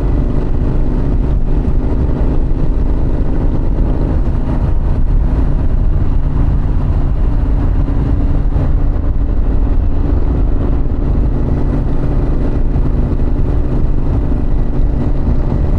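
Harley-Davidson Pan America's Revolution Max 1250 V-twin running at a steady cruising speed, mixed with heavy wind rush on the camera microphone.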